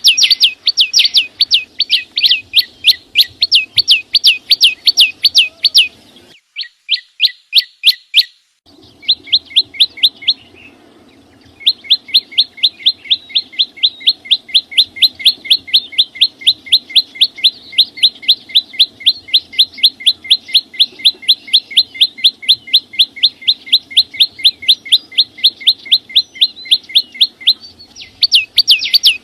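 A small songbird, the chim sâu xanh, singing a rapid, even series of sharp chirps, about four a second, each note sliding down in pitch. The series breaks off briefly about a third of the way through, then runs on steadily.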